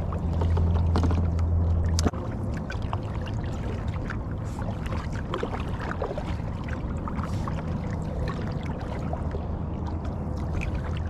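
Water splashing and dripping around a kayak, with many small irregular splashes over a steady low rumble. The rumble drops suddenly about two seconds in.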